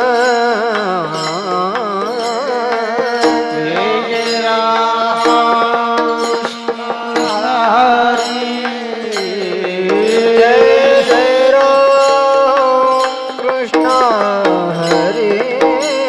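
Indian devotional bhajan music: a wavering melodic line over a steady drone, with percussion strokes keeping an even beat.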